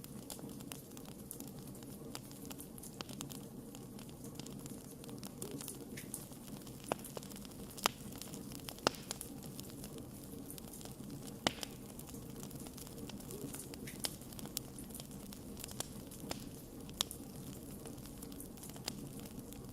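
Wood campfire burning, with a steady low rush of flame and a constant scatter of sharp crackles. A few louder pops stand out around the middle and again near the end.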